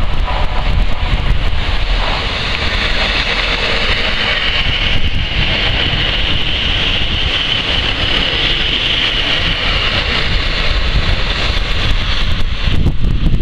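A Northern Rail Class 156 diesel multiple unit passing along the platform, its engine and wheels on the rails making a steady rumble, with a high whine strongest for a few seconds in the middle as it goes by close. Wind buffets the microphone.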